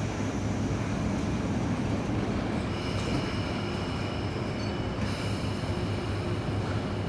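Sydney S-set double-deck electric train moving at the platform with a steady rumble. Thin, high squeal tones from the wheels come in about three seconds in and again around five seconds.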